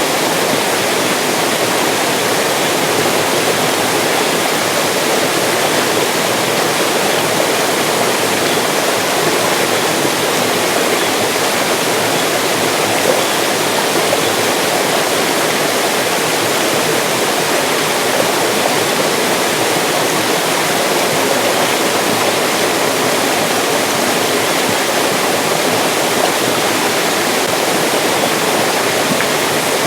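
Mountain stream rushing over rocks, a steady loud splashing with no change.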